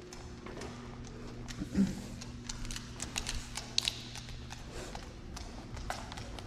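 Scattered footsteps and light taps during a dog's scent-work search, with one louder thud about two seconds in, over a steady low hum.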